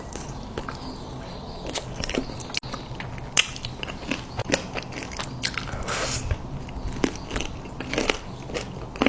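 Close-miked eating: crunchy bites and chewing, with irregular sharp crackles.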